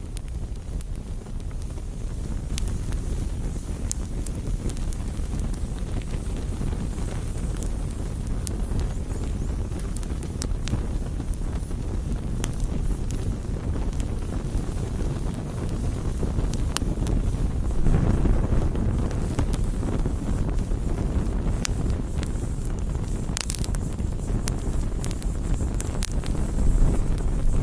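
Campfire burning, with scattered sharp crackles and pops over a steady low rumble, swelling louder for a moment about two-thirds of the way through. Wind buffets the microphone.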